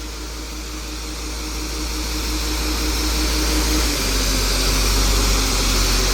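Engine of heavy harvest machinery running steadily and growing louder, as if coming closer; its pitch drops about four seconds in.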